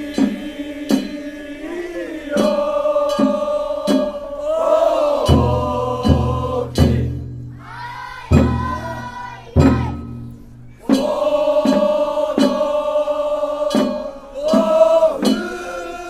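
A group of men singing a traditional Japanese boat song (funauta) in unison, holding long drawn-out notes, over sharp percussive strikes at an even beat and a few deep thuds.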